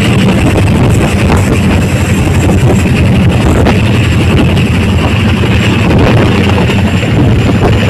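Chinook tandem-rotor helicopter running close by: a loud, steady drone of rotors and turbines with a fast rotor beat.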